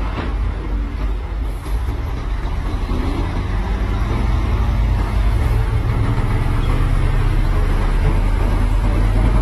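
Heavy diesel earthmoving machinery running steadily with a low engine drone, growing louder about four seconds in.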